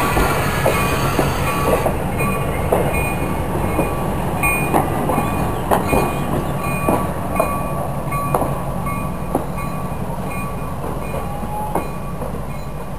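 Steel passenger coaches rolling slowly past, their wheels clicking over rail joints at irregular intervals over a steady low rumble, fading slightly as the train draws away.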